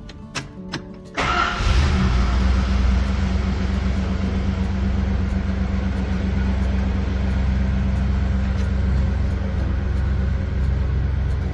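Cold start of a 1974 Chrysler Newport's 400 cubic-inch V8. After a couple of faint clicks, the engine fires about a second in and runs at a steady idle. It is loudest just after it catches and settles slightly lower.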